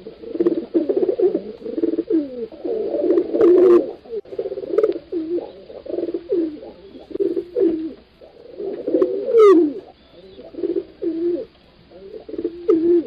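Pigeons cooing: a run of low, repeated coos, with calls overlapping in the first few seconds.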